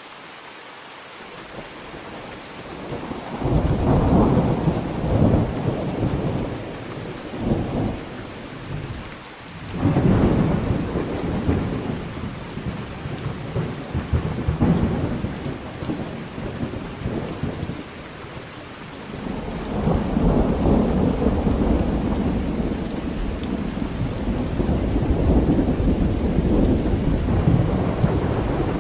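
Thunderstorm: steady rain with rolling thunder. A rumble of thunder builds about three seconds in, another breaks out about ten seconds in, and a long rolling peal starts about twenty seconds in and runs on.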